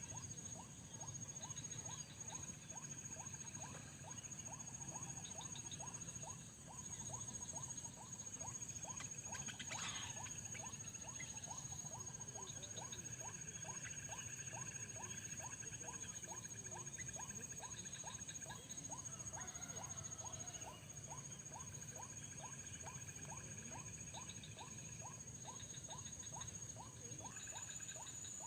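Faint natural ambience: insects keep up a steady high-pitched buzz, with short trilling bursts and a regular chirp about two and a half times a second.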